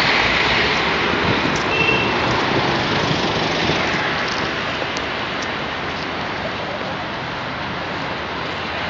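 Road traffic: vehicles driving past with a steady rush of tyre and engine noise, loudest at the start as one passes close, then easing off. No siren is sounding.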